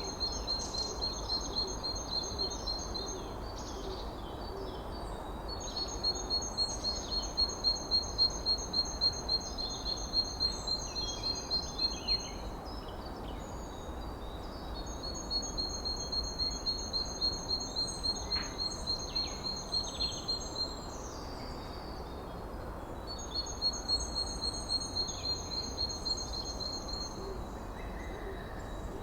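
A songbird singing in bouts of quick, evenly repeated high notes, each bout lasting several seconds, four times with short pauses between. Steady low background noise of the forest sits underneath.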